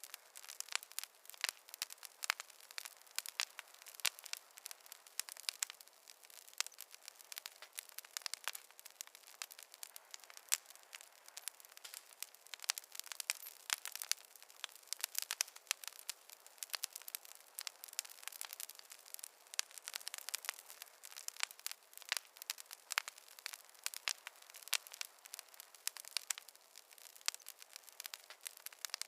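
Wood fire in a fireplace crackling steadily, with many small irregular pops and snaps over a soft hiss.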